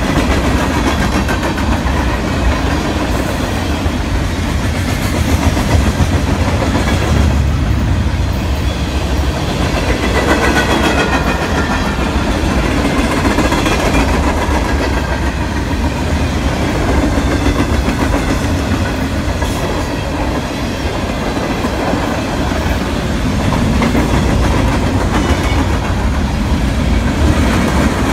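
A train passing close by, its steel wheels rolling on the rails in a loud, steady noise.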